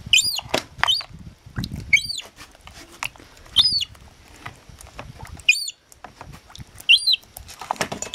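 Young seagull chick peeping: a series of about six short, high-pitched calls, each rising and falling, spaced unevenly a second or more apart.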